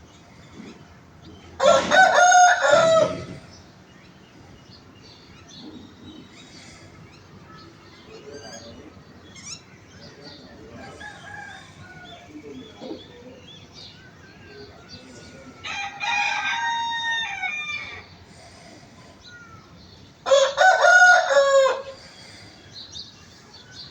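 A rooster crowing three times, each crow lasting under two seconds, the second one quieter. Fainter short chicken calls come in between.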